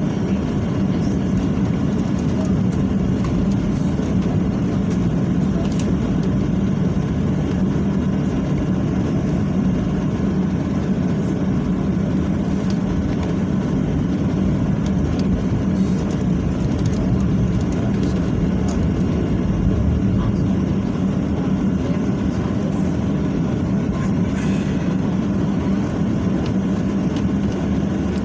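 Boeing 737-800 jet engines running, a loud, steady low rumble with no change in pitch.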